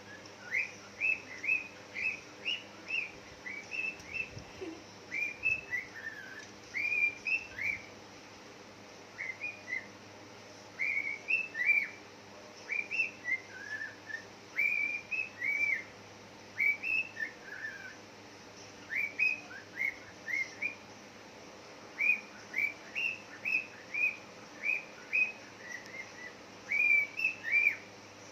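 Pet bird chirping and whistling: short clear notes that bend up and down, repeated in quick runs of about two or three a second with brief pauses between runs.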